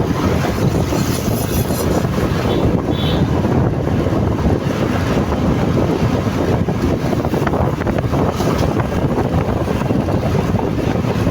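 Wind rushing and buffeting over the microphone of a riding motorcycle, a steady loud rush with vehicle noise beneath it.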